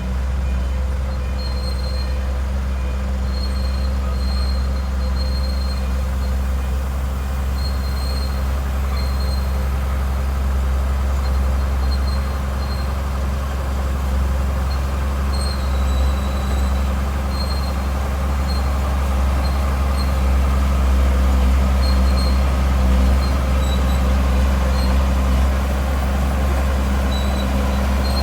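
Heavy diesel earthmoving machinery running steadily under load, a deep, constant engine drone. Short, faint high-pitched tones come and go throughout.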